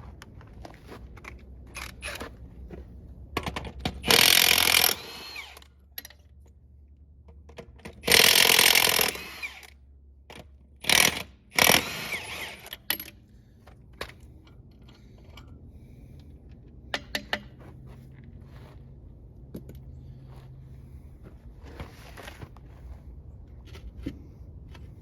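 A power tool run in several short bursts of about a second each, with clinks of metal parts between them.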